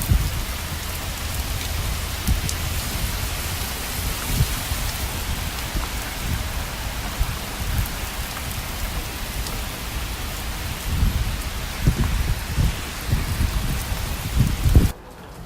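Steady rain falling hard, with low rolls of thunder rumbling underneath that swell in the last few seconds. The sound drops off suddenly just before the end.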